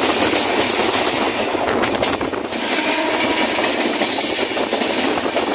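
Express passenger train running, heard from an open coach door: steady rush of wheels on rail and air, with clickety-clack and a few sharp clicks about two seconds in. A suburban local train passes close on the next track early on.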